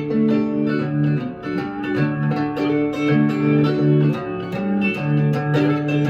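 Blues guitar playing an instrumental break: plucked, ringing notes, some of them bent in pitch, over a repeating low line.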